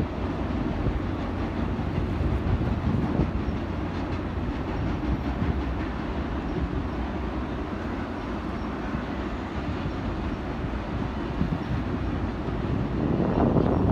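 Circus train's passenger cars rolling steadily across a steel trestle overhead: a continuous rumble of wheels on rail.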